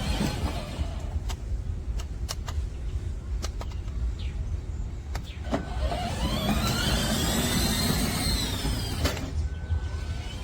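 Electric drive motors of a 24V kids' ride-on truck whining, starting with a click a little past halfway, rising in pitch as it speeds up, then falling and cutting off suddenly about a second before the end. A steady low rumble and a few sharp clicks come earlier.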